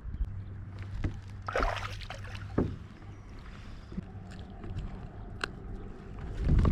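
Small fishing boat on the water: a low steady hum with scattered knocks, and a brief rush of noise about a second and a half in.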